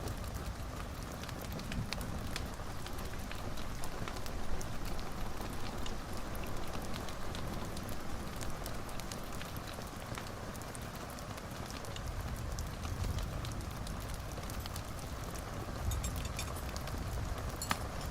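Wood fire in a fireplace burning steadily, with a low rumble and hiss and many small crackles and pops throughout, a few sharper pops near the end.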